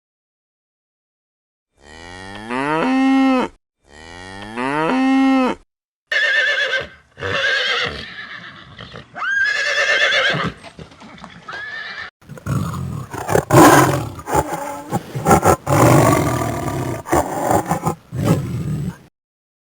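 A string of recorded animal calls played one after another. First come two matching calls that rise in pitch, then several shorter calls, then a longer, rougher stretch broken by sharp clicks near the end.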